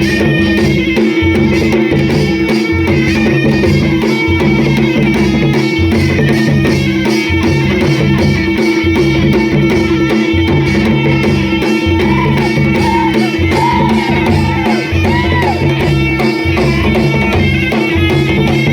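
Adivasi timli folk dance music: dhol and mandal drums play a steady driving rhythm over a held drone tone, with a melody sliding in pitch in the second half.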